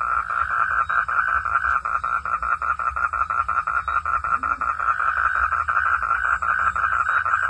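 Frogs calling in a chorus: a loud, unbroken train of rapid, evenly spaced croaks, several a second, all at the same pitch.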